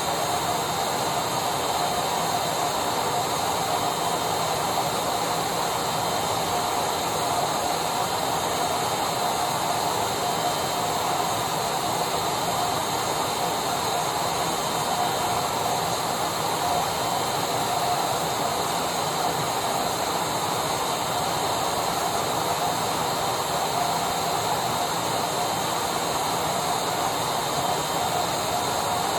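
Electric vacuum cleaner running steadily: a constant rush of air with a steady whine from the motor.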